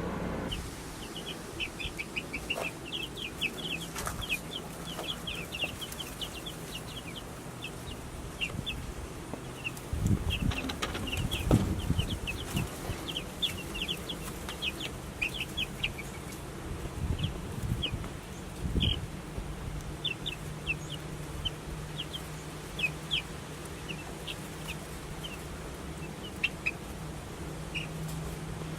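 Baby chicks about 12 days old peeping continuously: many short, high-pitched peeps over a steady low hum, with a few low thumps about a third of the way in and again past the middle.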